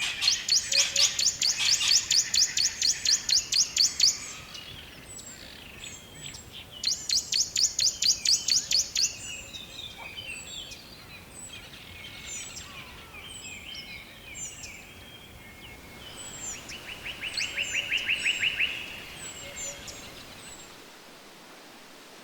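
Songbirds singing in woodland. Two long, fast, high trills of rapidly repeated notes are separated by a pause, and a lower trill comes later. Short high chirps from other birds fall in between, over a soft background hiss that fades a little before the end.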